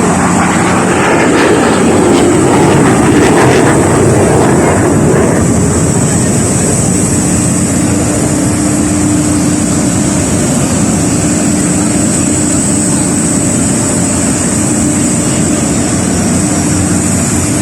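Loud aircraft engine noise of a plane in flight, swelling for a few seconds early on and then holding steady with a constant drone.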